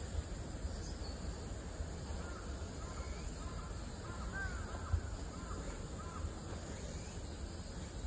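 A bird calling in the distance, a run of about eight short, arched, hoarse notes from about two to six seconds in, over a steady low rumble of wind on the microphone. A soft low bump about five seconds in.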